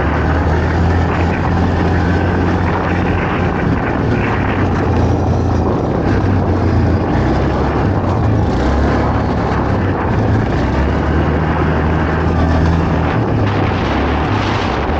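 ATV (quad bike) engine running hard under load, its drone shifting up and down in pitch a few times as the throttle changes.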